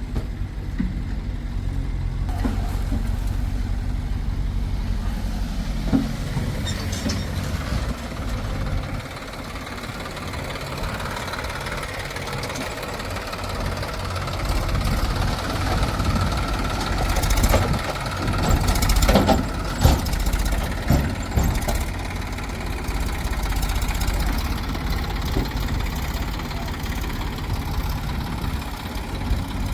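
Heavy diesel machinery engine running steadily, with a steady whine through the middle and a cluster of knocks and clanks about 17 to 21 seconds in.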